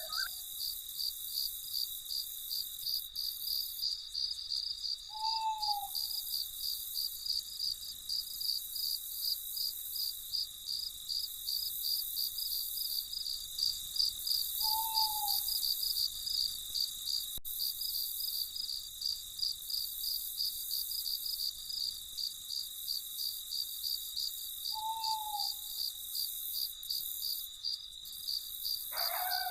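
Crickets chirping in a steady, rapid, even pulse, with a single short, falling owl hoot about every ten seconds.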